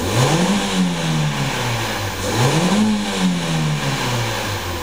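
2008 Holden Astra's 1.8-litre four-cylinder engine revved twice from idle, each rev climbing quickly and then falling back to idle.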